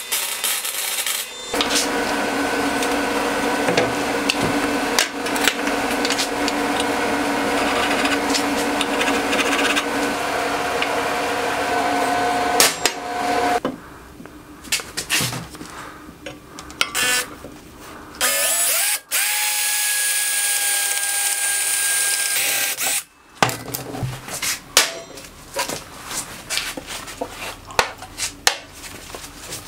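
Electric power tool motor running steadily for about twelve seconds, then stopping. After scattered clicks, a shorter run of a motor for a few seconds, then a string of small metal clicks and taps.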